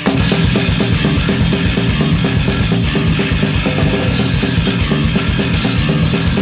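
Rock band playing live, all coming in together at once: fast drumbeat, distorted electric guitars and bass, instrumental with no singing.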